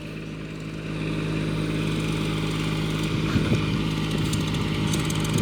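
Mini tractor backhoe's engine running steadily, its level picking up slightly about a second in.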